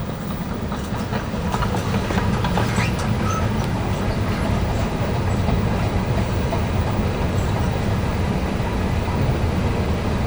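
Escalator running: a steady low mechanical rumble with scattered light clicks and clatter from the moving steps, growing a little louder over the first couple of seconds.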